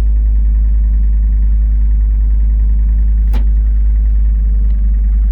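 John Deere 325 skid steer's diesel engine running steadily with a low rumble. A single sharp click comes about three seconds in.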